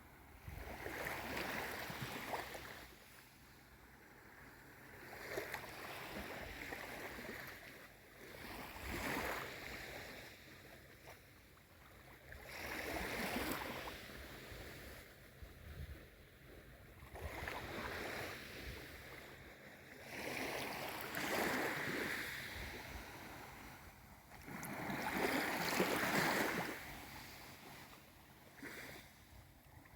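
Gentle waves of a calm sea, each swell of water washing in and falling away every few seconds.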